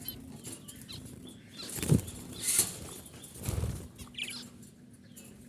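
Budgerigars chirping in short scattered calls, mixed with bursts of wing flapping and a few soft thumps.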